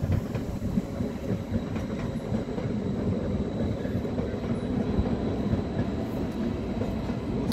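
Double-deck electric passenger train rolling over the tracks below, a steady low rumble.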